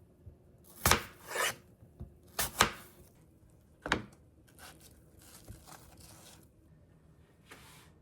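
Kitchen food-prep handling: a handful of sharp cutting or scraping strokes in the first four seconds, then softer rubbing.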